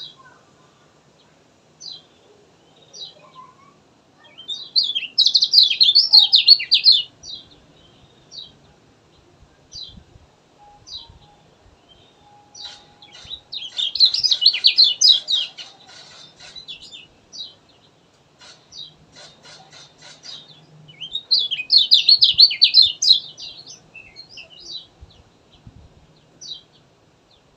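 Kecial kuning (a white-eye) singing: three loud bursts of rapid, warbling song, each a couple of seconds long, with short single chirps in the gaps between them.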